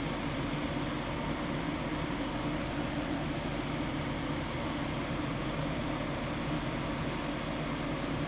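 Steady machine hum with an even hiss, like a fan or blower running, with no change in pitch or level.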